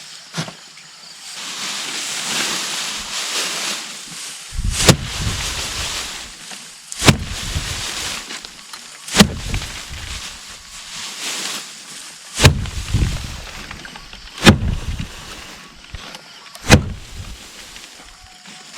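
Heavy blows striking again and again, about one every two seconds, with a dry rustling hiss between some of them.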